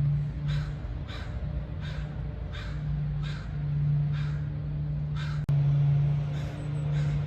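A crow cawing over and over, about ten short caws at an even pace, over a steady low hum. One sharp click comes about five and a half seconds in.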